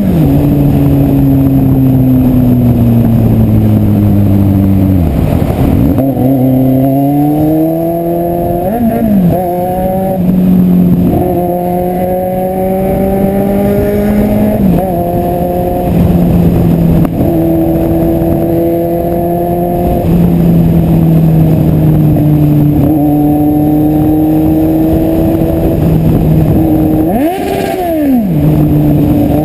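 Kawasaki Z750 motorcycle engine running under way, its pitch changing with throttle and gear: it falls over the first few seconds, then climbs in steps with a drop at each gear change, holds fairly steady, and rises and falls quickly near the end.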